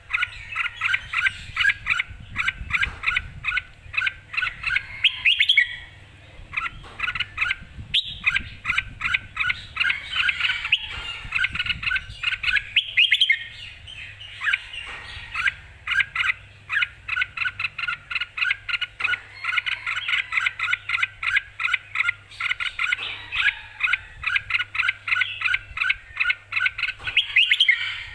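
Red-whiskered bulbul singing in lively, keyed-up form: phrase after phrase of rapid, bright whistled notes, with only brief pauses between runs.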